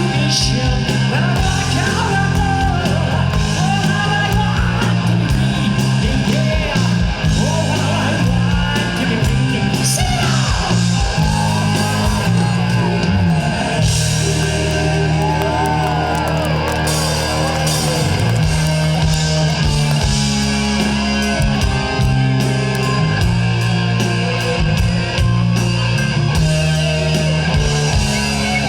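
Live rock band playing loud, with electric guitar leading in notes that bend and slide in pitch over sustained low bass notes.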